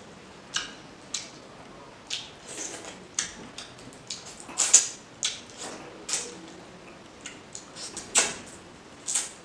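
Close-miked eating sounds of fish curry and rice eaten by hand: wet mouth clicks, lip smacks and chewing in irregular short bursts. The loudest come about halfway through and again about eight seconds in.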